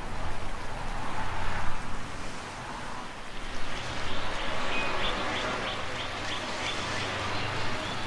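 A bird calling in a rapid series of short, high piping notes through the second half, over a steady rushing background noise.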